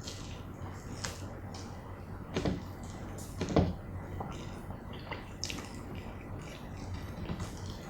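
Close-miked eating sounds: wet chewing and mouth smacking on fried chicken dipped in cheese sauce, a run of short clicks and squishes. Two louder bites come about two and a half and three and a half seconds in.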